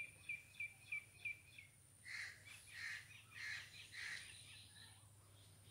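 Birds calling faintly: a quick run of short, high piping notes, about three a second, in the first second and a half, then four harsher, noisier calls about half a second apart.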